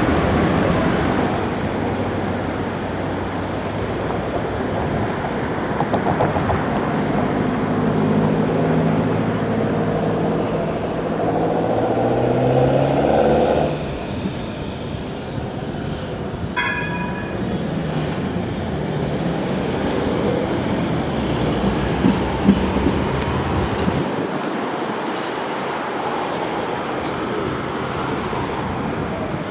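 A tram running on street track, its traction motors whining and rising in pitch as it speeds up; the whine cuts off suddenly about thirteen seconds in. A brief high tone sounds a few seconds later over the rolling and rumbling of the tram.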